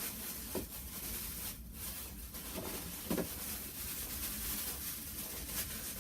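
Faint knocks and handling sounds from short pieces of model railway track being picked up and moved, over a steady low rumble and hiss.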